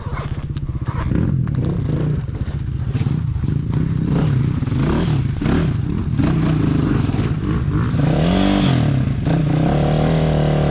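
Enduro motorcycle engine revving unevenly at low speed. Its pitch rises and falls repeatedly, with a bigger rev up and back down about eight seconds in.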